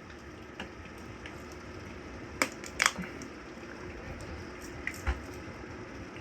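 Torrential thunderstorm rain falling in a steady hiss, with a few sharp taps cutting through: two close together about two and a half seconds in, and another near the five-second mark.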